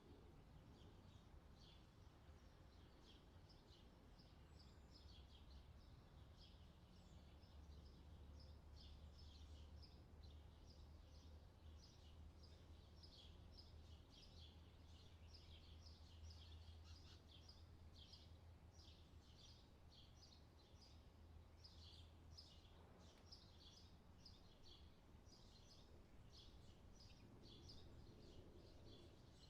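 Faint outdoor summer ambience: many birds chirping in quick, short, high calls throughout, over a low steady rumble.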